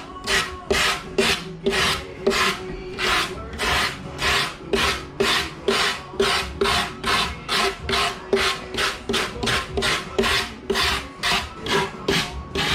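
Rapid, even back-and-forth scraping strokes of a hand tool on a work surface, about three strokes a second, as in rasping or scraping during taxidermy prep work.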